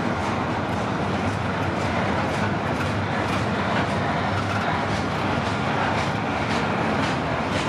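CPKC freight train's cars rolling past at low speed: a steady rumble of wheels on rail with regular clicks as the wheels cross rail joints.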